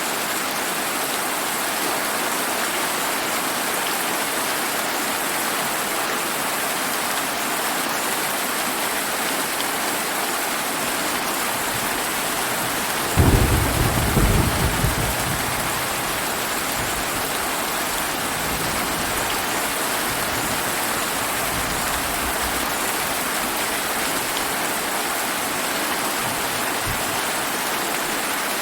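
Steady rain falling, with one clap of thunder about halfway through that starts suddenly and rumbles away over a few seconds.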